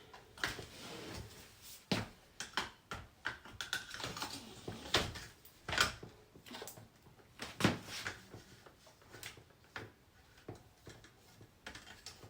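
Irregular knocks and clicks of hard plastic vacuum cleaner parts being handled and fitted together, with a few louder knocks in the middle.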